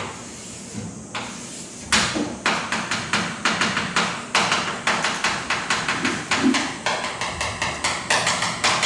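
Writing on a board: quick sharp taps of the strokes, about three or four a second from about two seconds in, with a brief squeak of the writing tip late on.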